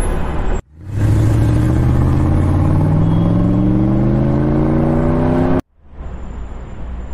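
Car engine accelerating, its pitch rising steadily for about four and a half seconds; it starts about a second in and cuts off abruptly, leaving a quieter street-traffic noise.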